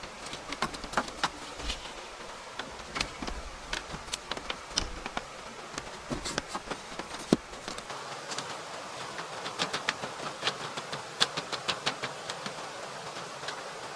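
Irregular light knocks and clicks, a few to several a second in clusters, over a steady background hiss.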